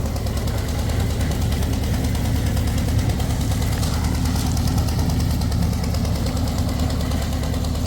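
A combustion engine running steadily with an even low pulse, unchanging throughout, typical of machinery working on a concrete pour.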